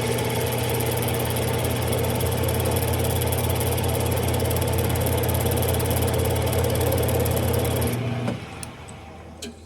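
Smithy lathe running with a tool working a spinning brass peg: a steady motor hum under a loud rasping cutting noise, which stops about eight seconds in, leaving the quieter hum and a couple of light clicks.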